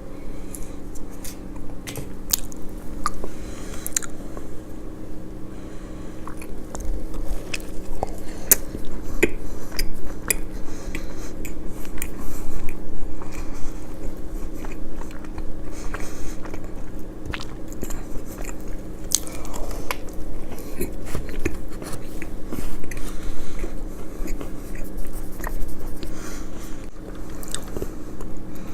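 Close-miked eating of crispy fried chicken: repeated crunchy bites and chewing of the breaded coating, with sharp crackles scattered throughout.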